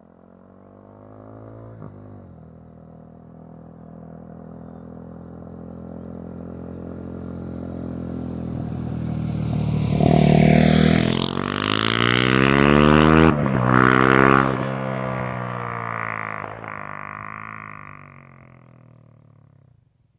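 KTM 390 Duke's single-cylinder engine through a Leo Vince aftermarket exhaust, riding past: it grows steadily louder as it approaches, is loudest about ten to fifteen seconds in with the pitch bending as it goes by, then fades away.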